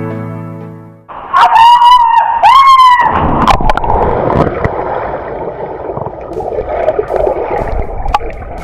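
Mountain stream water rushing over rocks, a steady loud noise from about three seconds in. Just before it, two short, high-pitched calls with a bending pitch, and a piano tune fading out at the very start.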